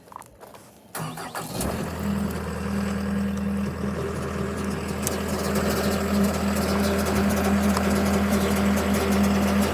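John Deere 325G skid steer's diesel engine cranking briefly about a second in, then catching and settling into a steady idle.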